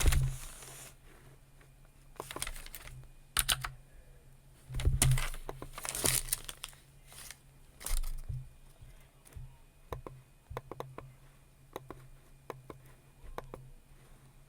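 Paper crinkling and rustling in several bursts over the first half, the longest and loudest around five to six seconds in. From about nine seconds in, a run of light, irregular computer-keyboard taps follows.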